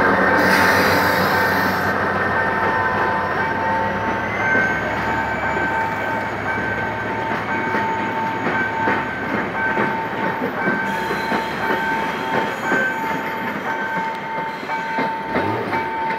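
Passenger train pulling out behind a GM GT22CW-2 diesel locomotive. The locomotive's low engine sound fades in the first couple of seconds as it passes, then the coaches roll by with a steady high-pitched wheel squeal and rapid clicking of wheels over rail joints, busier from about eight seconds in.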